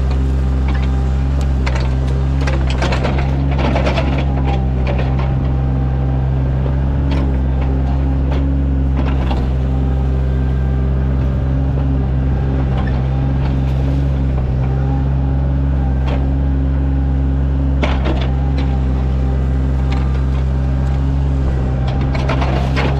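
Sany mini excavator's diesel engine running steadily under load while digging a ditch, with scattered knocks and clanks, most in the first few seconds and again around 16 to 18 seconds.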